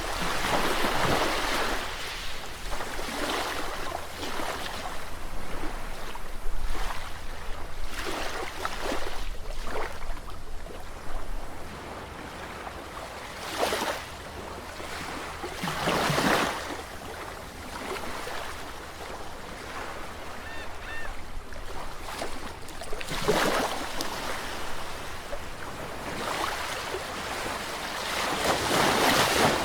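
Sea waves washing in and drawing back, the surf hiss swelling and fading every few seconds with several louder breaks.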